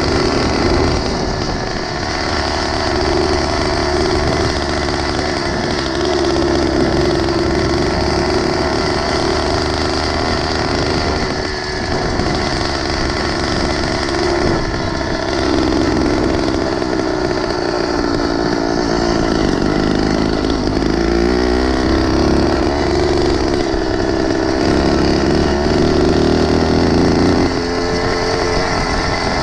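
Small engine of a motorized bicycle running while riding, its pitch rising and falling with the throttle, easing off briefly about eleven seconds in.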